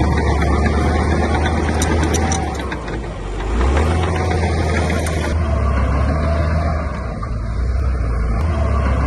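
Heavy construction machine's diesel engine running loud and steady with a deep drone. The drone dips briefly about three seconds in, then picks up again.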